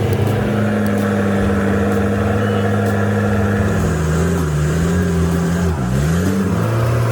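Heavy truck's diesel engine running under load, a steady low drone. About four seconds in, its pitch sags and climbs again twice, dipping sharply near the six-second mark, as with revs falling and recovering through a gear change.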